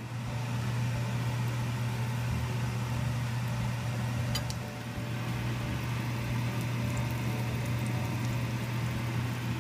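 Shiitake mushroom patties, coated in egg, sizzling in oil in a frying pan, over a steady low hum.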